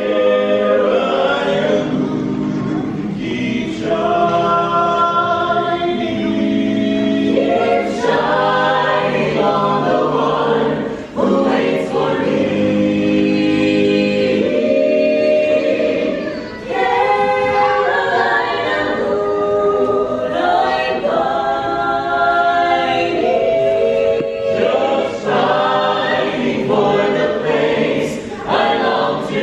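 A cappella choir singing in close harmony with no instruments, phrase after phrase with brief breaths between.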